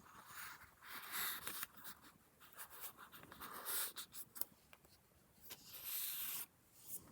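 Paper pages of a handmade junk journal rustling and sliding as they are handled and turned, in three main swishes about a second long with small taps and clicks between.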